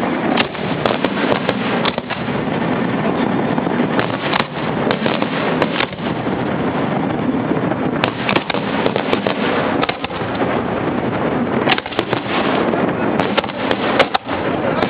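Fireworks display heard close up from the launch barge: a continuous wash of bursts with many sharp cracks and crackling throughout.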